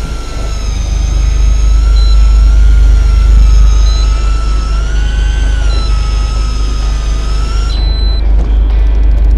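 Electric fishing reel winding in line with a whine whose pitch wavers as the load changes. Short high beeps sound every couple of seconds, and the whine cuts off suddenly near the end with a longer beep, over the steady deep rumble of the boat's engine.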